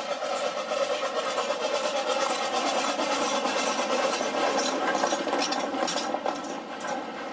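A railway locomotive running close by: a steady mechanical noise with hiss. It swells over the first second and eases off near the end.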